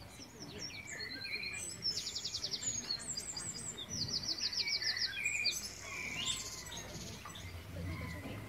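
Songbirds chirping and whistling: a mix of short calls and falling notes, with two fast rattling trills, one about two seconds in and a longer one about four seconds in.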